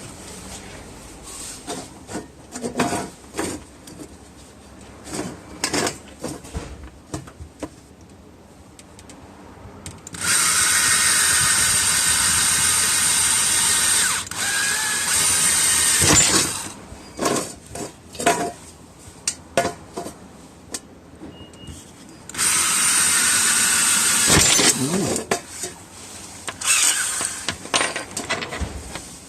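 Handheld power tool, drill-like, running in several bursts a few seconds long, with scattered knocks and clatter of parts being handled between the bursts.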